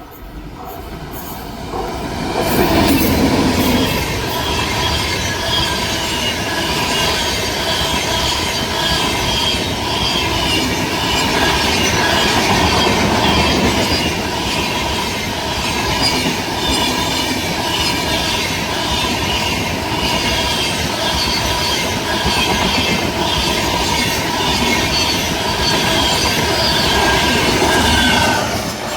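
An Indian Railways express train passing close at speed: it arrives with a rush about two seconds in, then the coaches roll by with steady wheel clatter and a high ringing squeal from the wheels on the rails, until the last coach passes and the sound drops away near the end.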